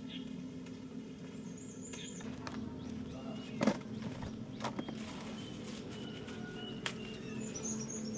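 Small birds chirping in short high twitters, with a few sharp knocks in between over a steady low hum.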